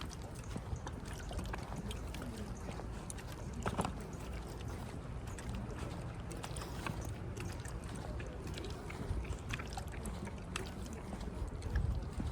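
Wind rumbling on the microphone during a walk outdoors, with scattered light footstep clicks and faint voices in the background.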